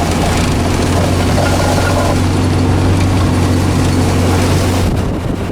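Engine of the vehicle he is driving, running steadily with a low drone under rushing wind and driving noise. The low engine note drops away about five seconds in.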